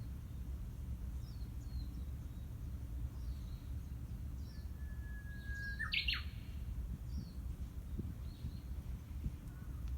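Japanese bush warbler singing one 'hoo-hokekyo' song about halfway through: a long held whistle, then a quick higher flourish. Faint short chirps come and go over a steady low rumble.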